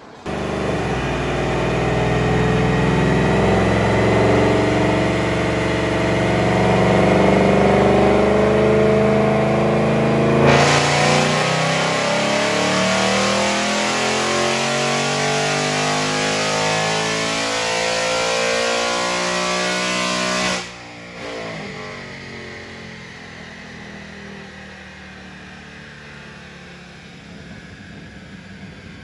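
Ford Mustang GT's Gen 3 Coyote 5.0 V8, with long-tube headers and a performance exhaust, at full throttle on a chassis dyno. Its pitch climbs for about twenty seconds up to the 7,800 rpm redline, pretty loud. Then the throttle shuts suddenly and the engine and rollers wind down.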